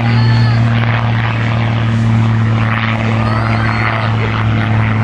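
A steady low droning hum, a deep tone with a fainter one an octave above, under a rough noisy background.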